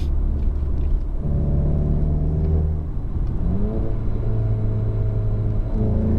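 VW MK7 GTI's turbocharged 2.0-litre four-cylinder running through a 3-inch catless downpipe while driving, a steady low drone. Its pitch shifts in steps a few times, with a short rising sweep about three and a half seconds in, then a lower steady note.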